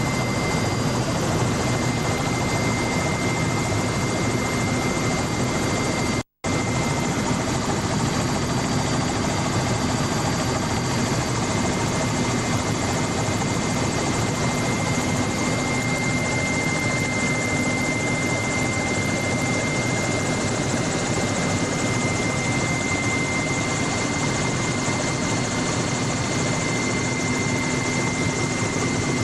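Helicopter rotor and engine noise heard from aboard the helicopter in flight: a loud, steady din with a constant high whine. It drops out for a split second about six seconds in.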